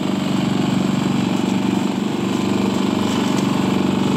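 Small boat outboard motor running steadily at low trolling speed, an even rapid-firing hum with no change in pitch.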